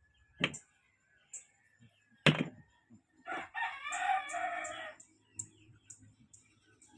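Two sharp knocks, then a rooster crows once, a single call of about a second and a half.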